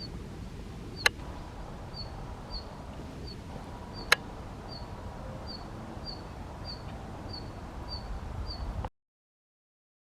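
A red-flanked bluetail giving a short, high call over and over, roughly one to two calls a second, over a low rumble. Two sharp loud clicks break in about one and four seconds in, and the sound cuts off suddenly about nine seconds in.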